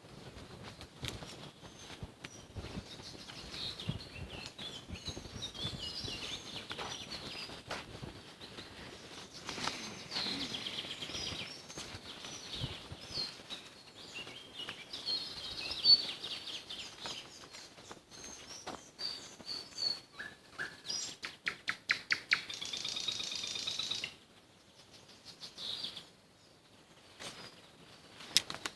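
Nightingales and other songbirds singing, with many overlapping phrases of chirps and whistles. About twenty seconds in comes a fast run of loud repeated notes, and a few seconds later the chorus drops abruptly to fainter song.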